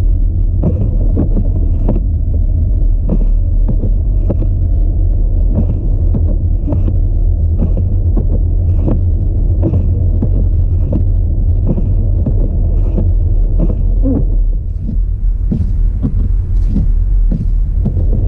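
Audi A4 driving on a snowy road, heard from inside the car: a steady low road and engine rumble with a regular knock about twice a second, and a brief hiss near the end.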